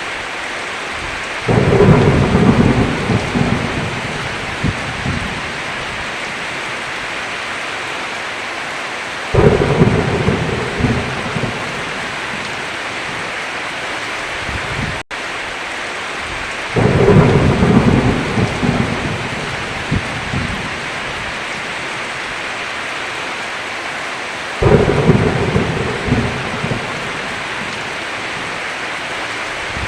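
Heavy rain falling steadily on a roof, with thunder rumbling four times, each peal starting suddenly and fading over a few seconds. The sound cuts out for an instant midway.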